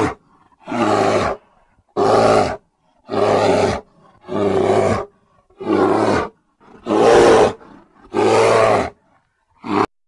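A large animal giving a series of loud, hoarse calls, eight of them about a second apart, with a short one near the end.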